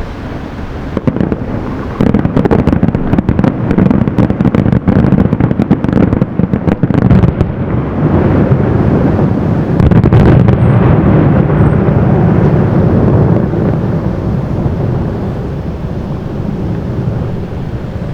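Aerial fireworks going off: a rapid barrage of bangs and crackles for several seconds, then a dense rumble of overlapping bursts that slowly fades.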